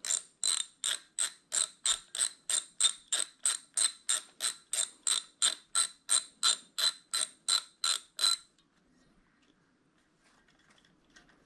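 Socket ratchet clicking steadily at about four clicks a second as a bolt is turned on the engine case, stopping about eight seconds in. A light metallic clink near the end.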